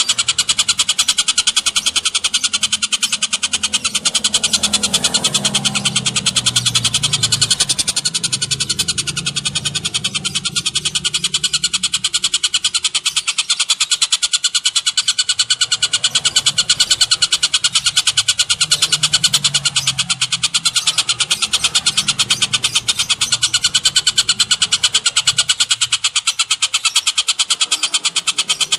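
Bird calls from a mixed masteran recording of tengkek buto (collared kingfisher), cililin and canary: a very fast, even, unbroken trill, with a low rumble underneath at times.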